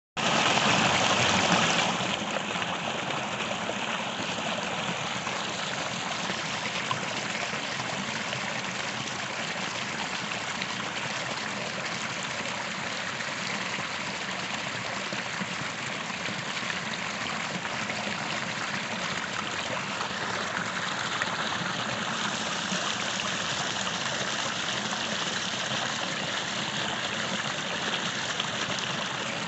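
Small creek flowing: a steady rush and trickle of running water, a little louder for the first two seconds.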